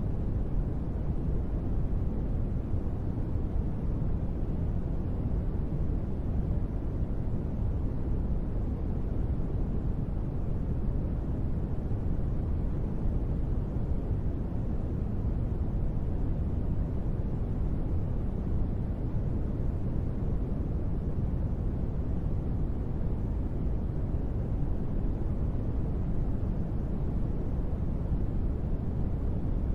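Steady white noise for sleep, deep and even, with most of its weight in the low end and little hiss up high. It does not change at all.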